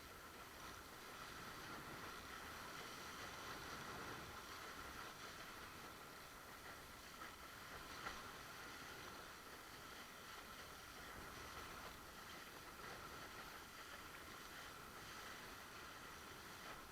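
Faint, steady, muffled rush of wind and water from a windsurf board under sail, with a faint steady hum running through it.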